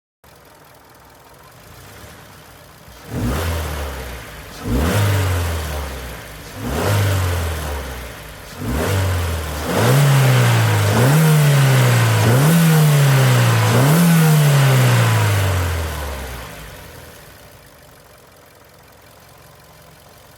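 Suzuki Swift Sport ZC32S's 1.6-litre M16A naturally aspirated inline-four, fitted with a GReddy sports-catalyst exhaust manifold, a Monster Sport PFX300 replacement air filter and the stock muffler, being revved loudly. It idles, then gives four short throttle blips about two seconds apart, then four quick revs in a row that hold higher, and settles back to idle near the end.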